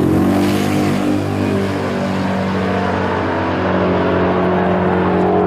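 Truck engine running loudly at steady revs. It drops from higher revs right at the start, then holds an even note.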